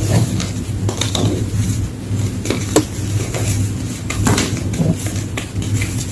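Gym chalk being crushed, with irregular crunches and crackles and one sharper snap a little under three seconds in, over a steady low hum.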